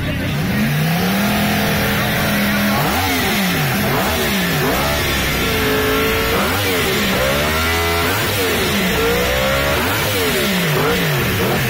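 Yamaha R1 motorcycle engine revved hard. One rev is held for a moment near the start, then comes a string of quick throttle blips, the pitch rising and falling again and again.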